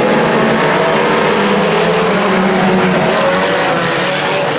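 Several IMCA Sport Compact race cars' four-cylinder engines running together on the track, their pitches drifting and overlapping as the cars circulate.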